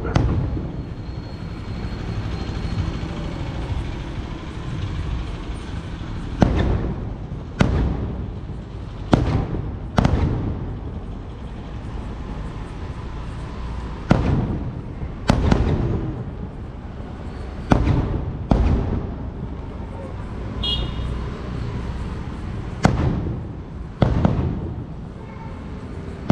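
Sonny Fireworks sky-shot aerial fireworks going off: about a dozen sharp bangs, each followed by a rolling echo, several coming in pairs about a second apart.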